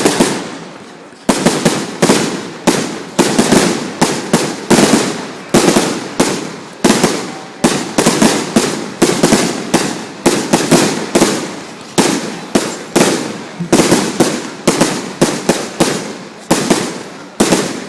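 Fireworks going off in a rapid, continuous barrage, several sharp bangs a second, each fading away before the next. There is a brief lull about a second in.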